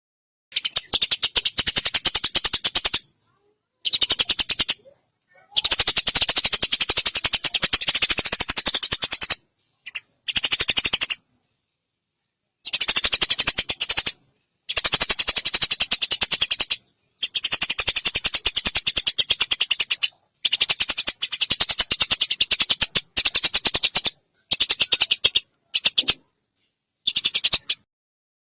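Eurasian tree sparrows giving fast, harsh fighting chatter, in loud bursts of one to four seconds that stop abruptly between stretches of silence.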